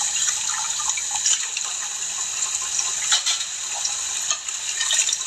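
Tap water running into a sink while dishes are washed by hand, a steady hiss with a few sharp clinks of dishes.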